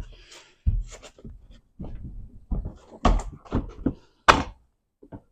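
Irregular knocks, thunks and rattles of hands working the car door's loosened trim and window regulator parts, with one loud sharp knock about four seconds in.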